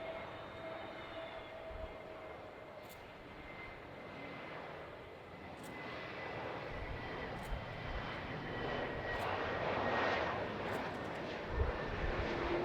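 Jet airliner's engines with a thin steady whine over the rumble, the noise building to its loudest about ten seconds in as the aircraft passes.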